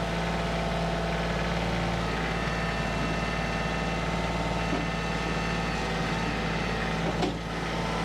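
Compact tractor's diesel engine running at a steady speed, with one short knock about seven seconds in.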